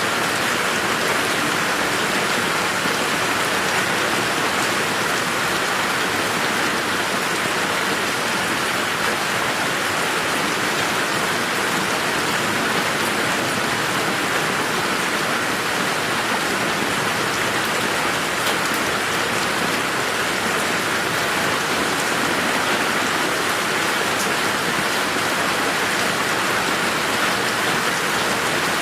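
Steady, even rain falling in a garden, a continuous patter of drops without thunder.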